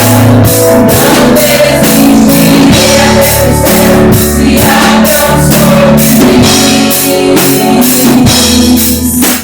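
Praise and worship music: a band with drum kit, bass and guitar playing under singing, with a steady beat of about two drum strokes a second.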